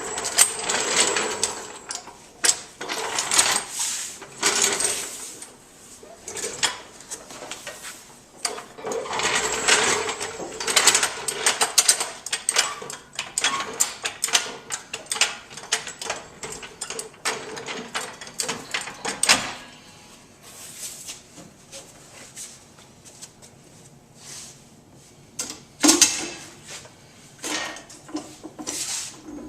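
Bursts of rapid metallic clicking and clanking from hand work on the car's body and frame, with quieter stretches between; the loudest bursts run for the first few seconds and from about 8 to 19 seconds, with a sharp knock at about 26 seconds.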